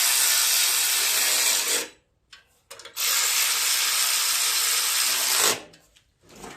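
Handheld power driver running 8 mm bolts down to fasten a riding mower's engine shroud, two steady runs of about two and a half seconds each with a short pause between.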